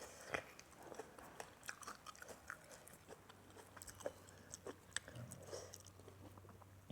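Faint close-up chewing and biting while eating, with small crunches and wet mouth clicks scattered throughout.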